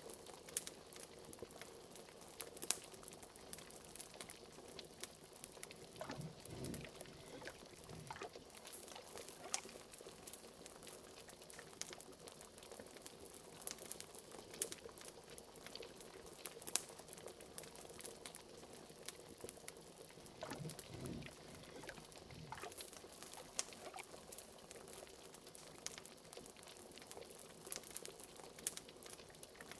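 A cauldron of liquid bubbling steadily, with a few deeper glugs, over the crackling and popping of a fireplace.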